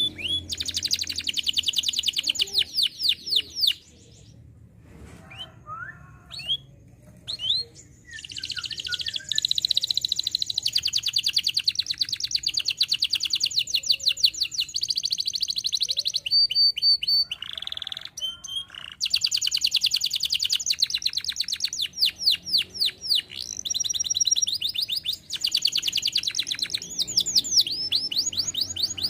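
Canary singing: long trills of very fast repeated high notes, with a quieter patch of scattered single notes a few seconds in and short breaks in the middle.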